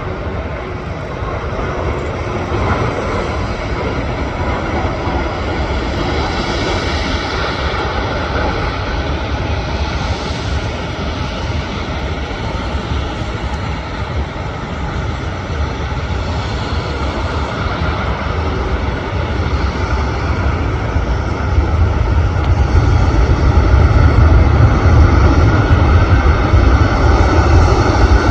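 Airliner jet engines, a steady roar with a deep rumble that grows steadily louder, the rumble strengthening strongly over the last several seconds as the aircraft draws nearer.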